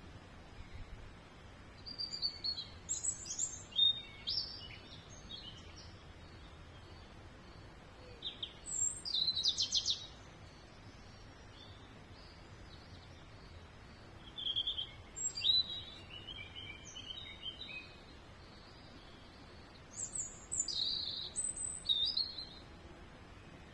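Songbird singing in four short bursts of quick, high, varied notes, separated by pauses of a few seconds.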